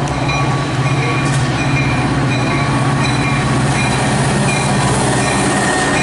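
Train passing on the rails: a loud, steady rumble with a low hum, and a short ringing tone repeating about twice a second.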